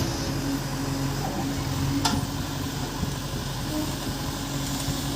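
Excavator's diesel engine running steadily, with a sharp metallic knock about two seconds in.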